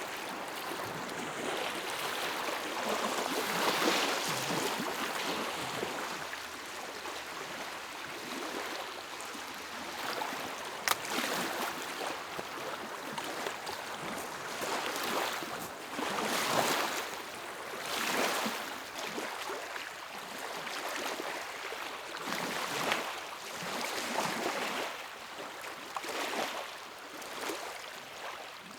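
Small lake waves lapping against the shore in uneven swells that come and go every couple of seconds, with a single sharp click about eleven seconds in.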